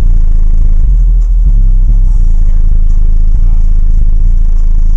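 Very loud, distorted bass from two FI Audio Team 15-inch car subwoofers playing a bass-heavy track, overloading the microphone. A deeper bass note swells in about a second in.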